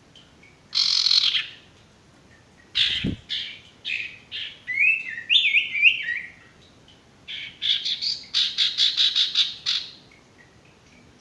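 Sirtu bird calling: a harsh rasping burst, then a string of short chirps and sliding chattering notes, ending in a quick run of about a dozen rapid chips. A single low thump sounds about three seconds in.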